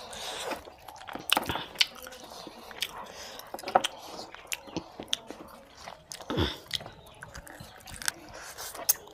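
Close-up chewing and biting of mutton curry and rice, eaten by hand by two people: an irregular string of short clicks and mouth noises, one louder about six and a half seconds in.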